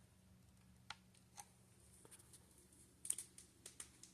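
Near silence with a few faint light clicks, then a short cluster of quick clicks and taps about three seconds in: handling noise.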